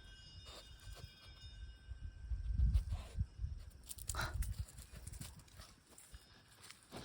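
A Maltese dog walking and sniffing close to the microphone: light, irregular paw steps and short nose snuffles, with a louder low rumble about two to three seconds in.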